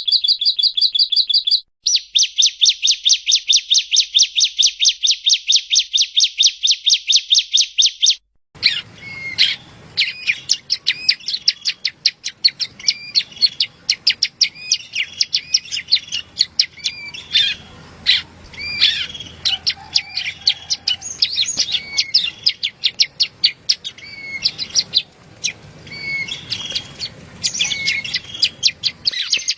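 Yellow-bellied prinia (prenjak rawa) singing. A rapid, evenly repeated trill of bright notes lasts for the first eight seconds. After a brief break, a more varied, chattering song of chirps and short whistles follows over a light background hiss.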